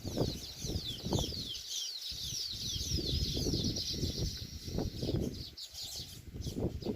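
A colony of weaver birds chattering: a dense stream of quick, falling high chirps, busiest in the first few seconds. Under it runs an irregular low rumble.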